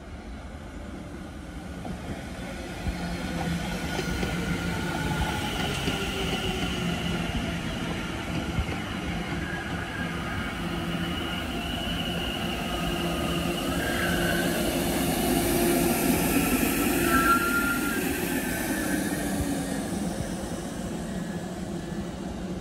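London Overground Class 710 electric multiple unit running along the platform: an electric traction whine with several steady and sliding tones over wheel-on-rail noise. It grows louder to a peak about two-thirds of the way through, then eases.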